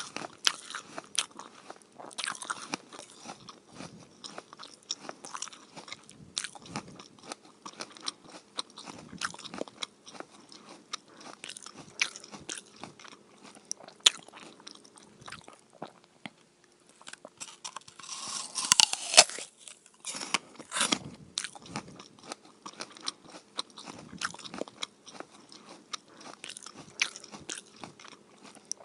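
Close-up eating: crisp crunching bites and chewing, a quick irregular run of sharp crunches. The crunching is densest and loudest about two-thirds of the way through.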